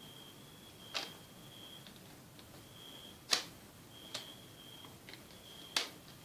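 Sharp plastic clicks and taps from the netbook's plastic case and parts being handled, four of them spread over the few seconds, the third the loudest. A faint, high, steady whine comes and goes behind them.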